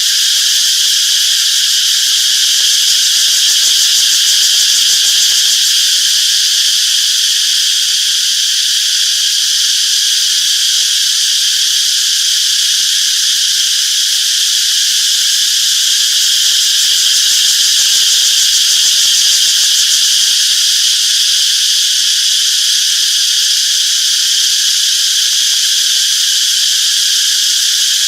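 Dense chorus of cicadas singing: a loud, continuous high-pitched buzz that holds steady without pause.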